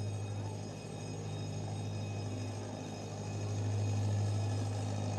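Zoo train's engine running with a steady low hum, getting louder about three and a half seconds in as it comes closer.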